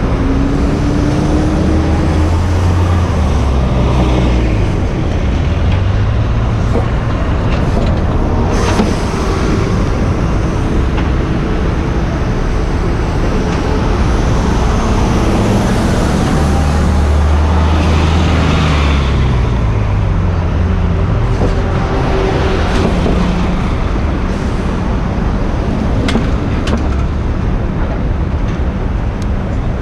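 Heavy city traffic heard from a moving bicycle: a steady roadway rumble with car and bus engines swelling and fading as they accelerate and pass, twice rising and falling in pitch. One sharp click about nine seconds in.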